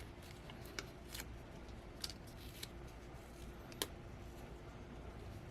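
Small plastic mounting-kit parts being handled and fitted together by hand: a few scattered light clicks and snaps, the sharpest about four seconds in, over a low steady hum.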